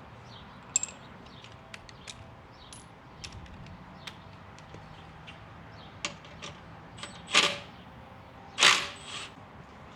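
Hand tools working on the motorcycle's exhaust fasteners: scattered metallic clicks and clinks, with two louder rasping bursts near the end, like quick ratchet turns.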